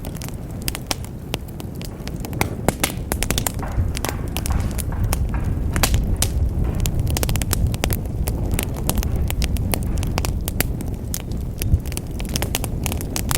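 Fire burning in a fireplace, crackling with many sharp pops and snaps over a steady low rumble of the flames.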